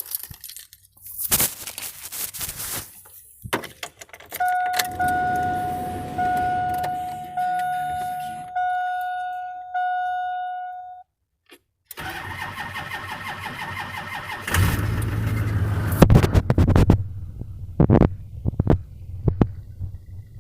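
Cab clatter, then the truck's warning chime dinging over and over, then the LB7 Duramax 6.6 L V8 turbodiesel cranks and catches about fourteen seconds in on a cold start, settling into a steady idle.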